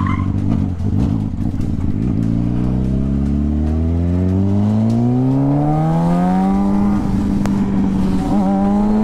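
Motorcycle engine accelerating: its pitch climbs smoothly for about five seconds, then holds steady at a higher pitch.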